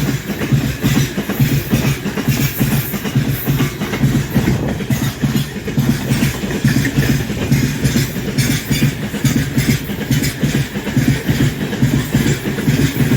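Freight train rolling past, its wagons' wheels clattering over the rail joints in a steady rhythm.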